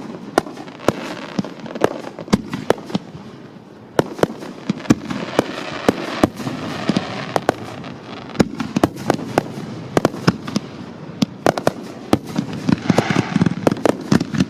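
Aerial fireworks going off in a grand finale: many sharp bangs in quick, irregular succession over a steady crackle, growing denser near the end.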